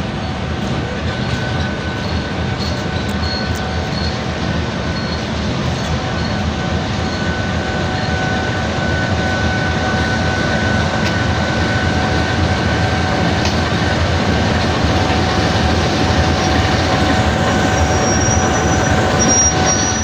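Train running by with a steady rumble and clatter of wheels on track, with a steady high-pitched whine over it, slowly growing louder.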